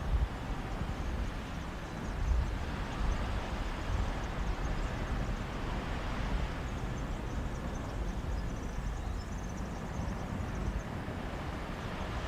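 Mediterranean sea waves washing on a beach in a sea breeze: a steady wash of surf with a low rumble, swelling twice.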